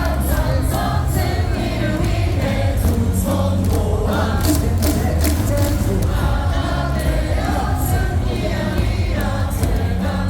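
Korean baseball stadium crowd singing a team cheer song in unison over amplified stadium music, with sharp claps or beats struck through it.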